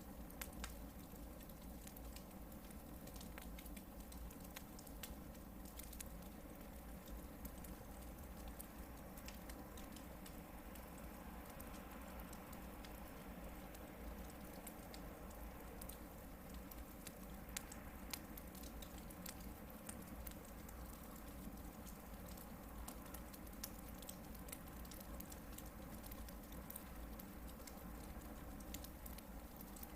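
Hardwood log campfire burning, with a steady low hiss and scattered small crackles and pops throughout, a few of them sharper.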